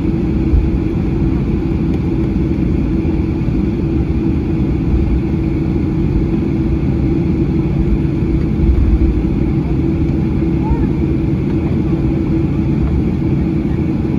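Steady cabin noise inside a Boeing 737 on the ground after landing: a low rumble with a steady hum.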